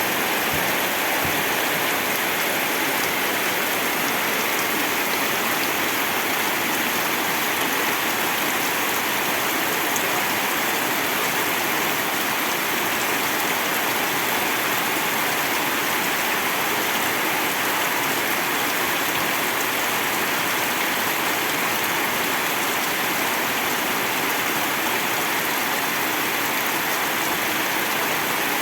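Steady heavy rain falling, an even hiss of downpour that holds at one level throughout.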